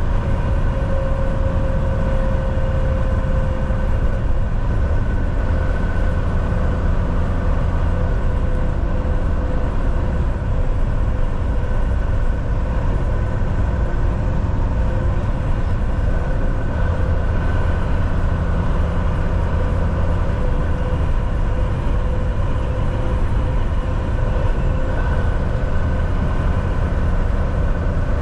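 Volvo VNL 760 semi-truck driving at a steady speed: an even rumble of engine and road noise with a faint whine held at one pitch.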